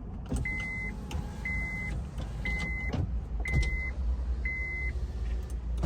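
Car's warning chime beeping about once a second, a short high tone five times, then stopping near the end, over a low rumble and a few clicks.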